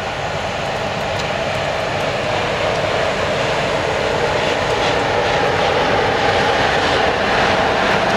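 A train approaching along the line, its running noise growing steadily louder.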